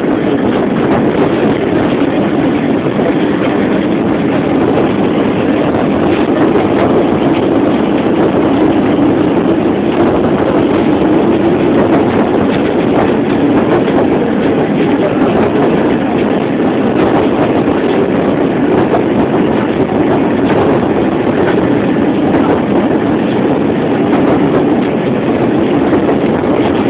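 Steady running noise of a diesel railcar heard from inside the carriage: a continuous rumble with no breaks or distinct rail-joint clicks.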